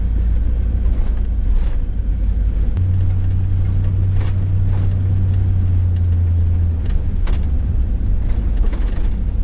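Low drone of a 1988 Ford Econoline camper van's engine and road noise, heard from inside the cab while driving. The drone swells about three seconds in and eases back about seven seconds in, with a few light rattles and clicks.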